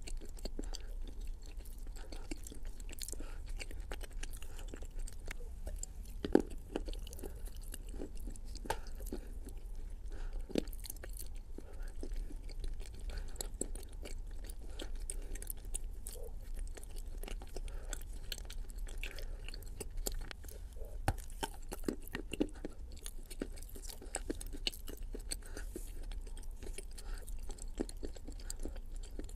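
A person chewing a mouthful of Turkestan clay paste close to the microphone: a steady run of short mouth clicks and smacks, with a louder smack about six seconds in and another around twenty-one seconds.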